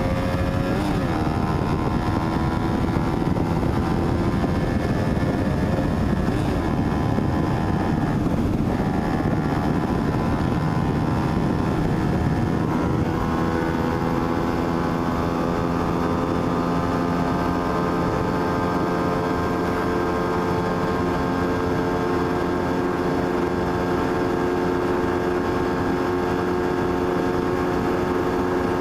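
Sport bike engine running under way, its pitch rising briefly at the start, shifting about near the middle and then holding nearly steady, over a low rush of wind noise.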